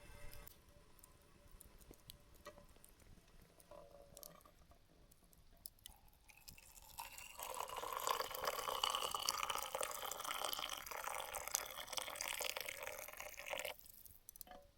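Liquid being poured steadily for about seven seconds, starting around the middle and stopping abruptly.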